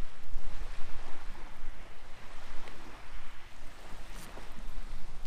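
Wind buffeting the microphone and water lapping around a kayak on open lake water, with one light click about four seconds in.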